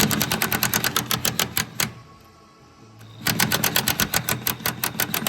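Impact wrench hammering in two bursts of about two seconds each, with a pause between, as it undoes the body-to-chassis bolts.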